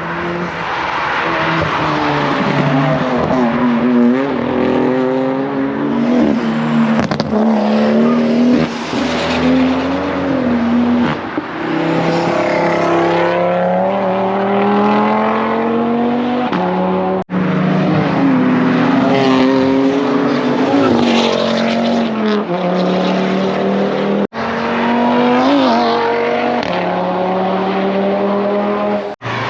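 Car engines revving hard and accelerating, their pitch climbing and dropping again and again over loud exhaust and tyre noise.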